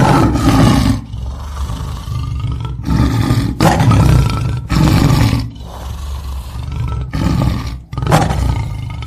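A big cat roaring: a series of loud, deep roars, one every second or so.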